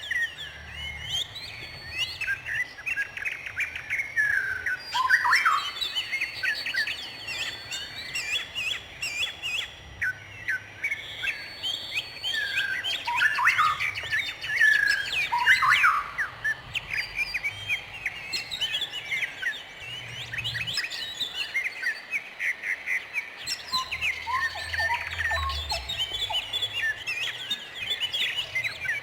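Birds singing and chirping, several at once: a continuous overlapping chorus of quick whistled notes, trills and short sweeping calls.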